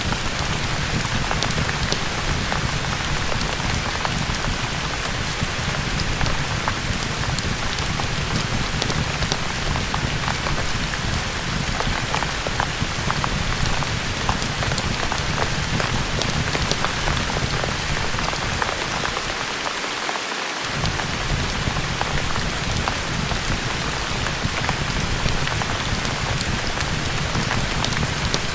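Steady rain, an even wash of noise with scattered small ticks of drops. About two-thirds of the way through, the low rumble drops out for about a second, then comes back.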